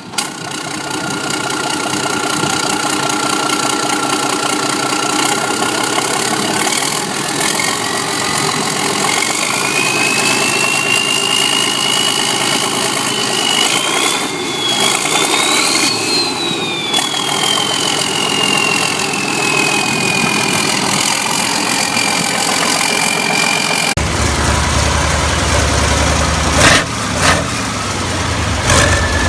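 Diesel engine running with a high whine that climbs in pitch for several seconds, peaks, then slowly falls. About two-thirds of the way through, the sound cuts suddenly to another diesel engine with a deeper rumble.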